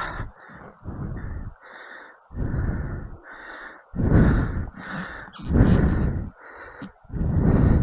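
Rider's heavy, rapid breathing close to the microphone, about eight loud breaths in quick succession.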